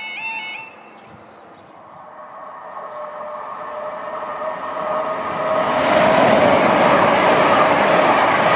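LNER Class 800/801 'Azuma' high-speed train approaching and passing at speed. The rush of the train starts faint about a second in and grows louder, with a steady whine running through it. It is loud and steady from about six seconds in as the train goes by.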